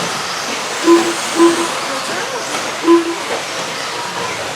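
Steady hiss from electric RC stadium trucks racing on the track, broken by three short electronic beeps: about a second in, half a second later, and near three seconds in. The beeps are typical of a lap-scoring system as trucks cross the timing loop.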